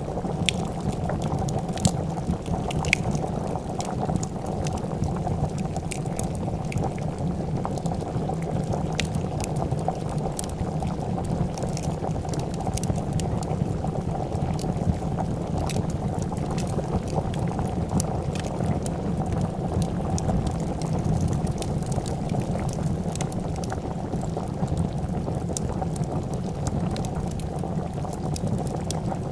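Pot of soup bubbling at a steady boil, with the sharp irregular pops and crackles of a fire scattered throughout.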